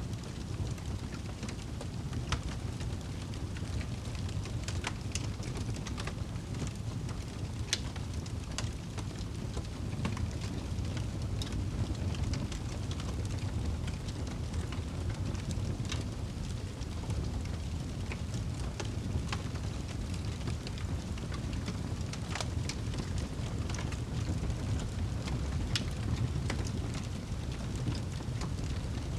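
Fireplace fire crackling: a steady low rumble under scattered sharp crackles and pops at irregular moments.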